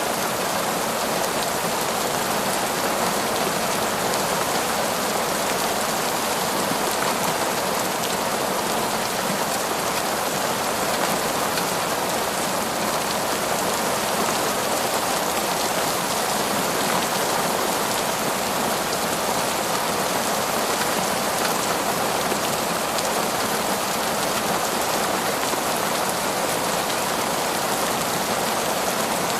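Heavy, torrential rain falling steadily on a forest, a dense, even hiss of rain with no thunder or breaks.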